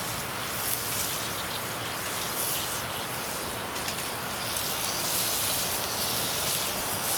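Beef cooking over a wood campfire: a steady sizzling hiss with a few faint crackles.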